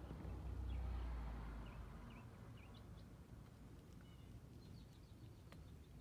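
Short, faint, high bird chirps, several of them dipping in pitch, over a low outdoor rumble that is loudest in the first second and a half. There is a single sharp tick near the end.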